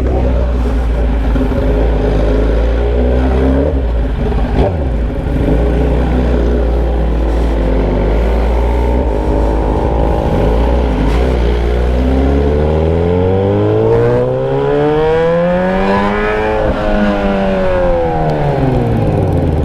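Motorcycle engine running with the muffler removed, exhaust coming straight out of the open pipe. It holds a steady pitch while cruising, then about twelve seconds in it rises for about four seconds as the bike accelerates, peaks, and falls away near the end.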